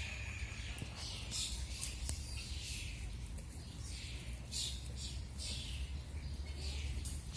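Small songbirds chirping and singing, many short repeated calls and downward-sliding notes, over a low steady rumble.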